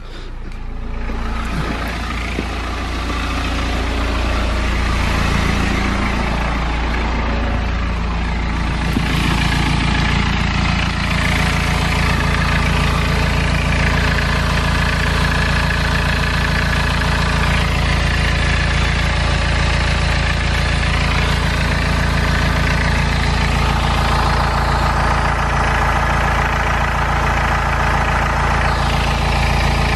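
BMW E60 diesel engine idling steadily, just restarted after its fuel filter was replaced and the fuel system primed.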